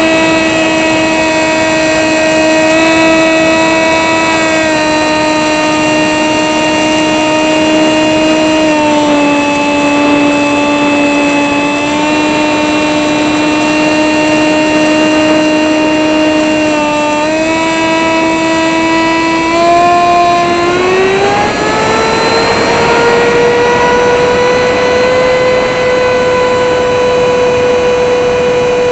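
The small brushless motor (RCX NK1103, 10000KV) and 3-inch propeller of a sub-100 g electric RC plane, heard from on board as a steady whine. The pitch shifts a little in small steps, then about 20 seconds in it glides up and holds higher as the motor speeds up.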